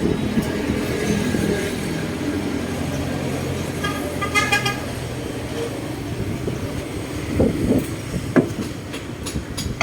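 Tractor engine running steadily with a rotary tiller working, a low drone. A short pitched toot sounds about four seconds in, and a few knocks come near the end.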